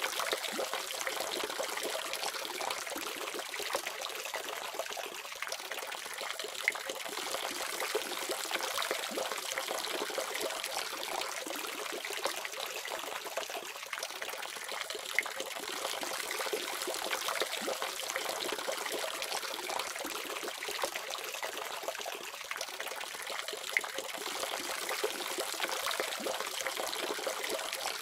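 Water running steadily from a faucet, a continuous splashing trickle with small irregular drips and splashes.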